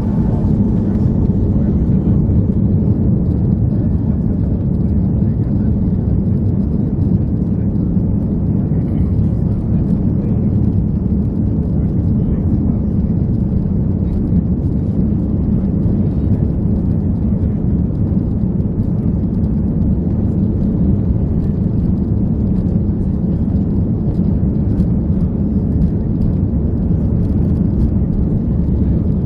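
Airbus A340-300 jet engine noise, a steady low roar that holds an even level throughout.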